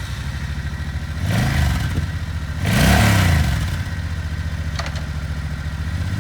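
2006 Suzuki Boulevard C90T's 1,500 cc liquid-cooled, fuel-injected V-twin idling, blipped twice, about a second and a half and three seconds in, the second rev higher and louder, then settling back to a steady idle.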